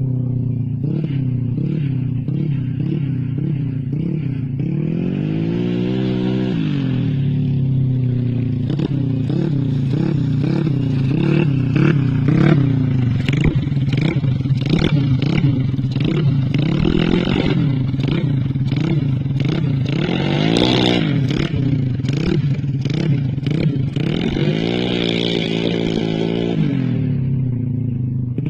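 Yamaha Mio scooter engine, built to 130 cc and fitted with a CLD C7 aftermarket racing exhaust, running near idle and blipped over and over. Short quick throttle stabs are broken by a few longer revs that rise and fall.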